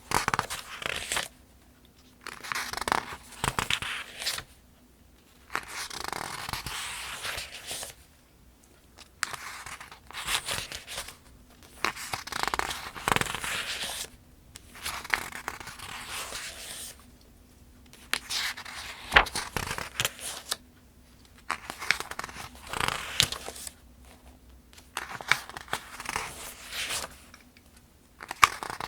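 Pages of the Farmers' Almanac being turned one after another at an even pace, roughly one every two to three seconds. Each turn is a papery rustle with a crisp snap or two, and there are short quiet gaps between turns.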